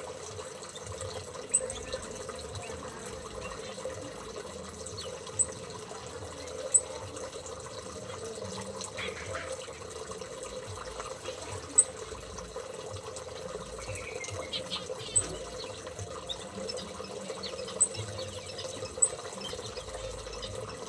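Steady trickle of running water, with short, sharp high chirps from small aviary birds every second or two and a little faint chatter.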